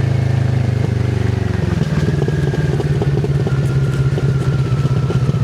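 Kawasaki Z650RS parallel-twin engine running through an IXIL MK2 full exhaust with its dB killer fitted, heard from the rider's seat. About a second and a half in, the steady note turns choppier and pulsing as the throttle changes.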